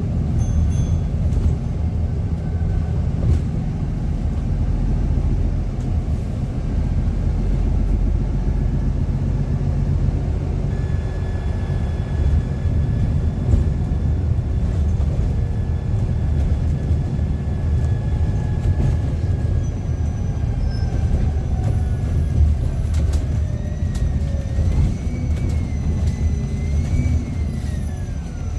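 Bus engine and road rumble heard from inside the moving bus, with the engine's noise also feeding through the on-board speaker system as a faint whine that appears partway through and rises and falls with engine speed near the end.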